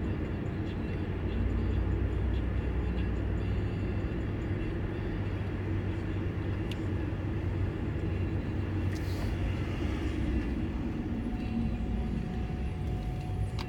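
Heavy transport truck's diesel engine running with a steady low rumble, and a short hiss about nine seconds in.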